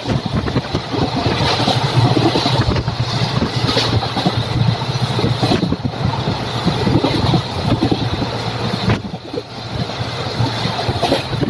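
Express train running at speed: a steady rumble and rattle of wheels on the track, with wind noise mixed in, briefly quieter about nine seconds in.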